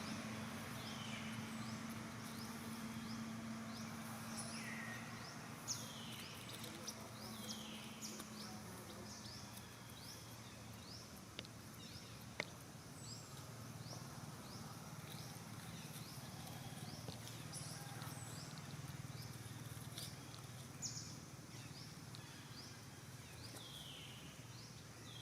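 Outdoor ambience full of short, high animal chirps, each falling in pitch, repeating every second or so, over a low steady hum, with a couple of sharp clicks.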